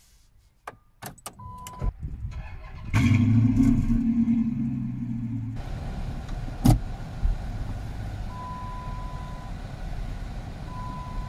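A 2008 Dodge Charger Pursuit's 5.7-litre V8 being started with the key: a few clicks and a short beep, then the engine catches about three seconds in with a brief rev and settles to a steady idle. A single sharp knock comes near the middle, and a steady beep sounds twice later on.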